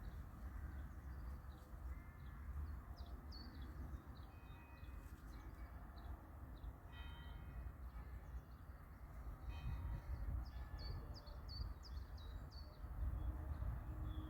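Small birds chirping again and again over a steady low rumble, with a short tonal call about halfway through.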